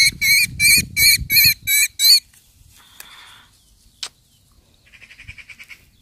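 A trapped young thrush gives loud, harsh distress calls, about three a second, while being handled to free it from nest material tangled on it. The calls stop after about two seconds. A single sharp click follows about four seconds in, then a fainter run of rapid calls near the end.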